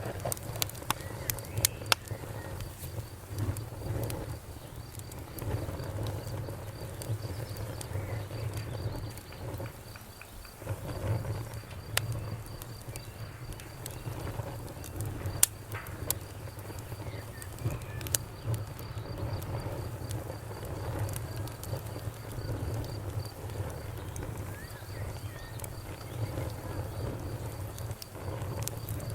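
Wood fire crackling: a steady low rumble of flames with irregular sharp pops and snaps, a few of them loud.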